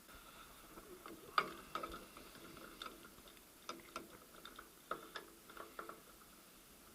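Irregular light metallic clicks and clinks, some with a short ringing tail, as the 1st/2nd gear selector fork is fitted onto its rod inside a VAZ 2108–2115 manual gearbox. The loudest clink comes about a second and a half in.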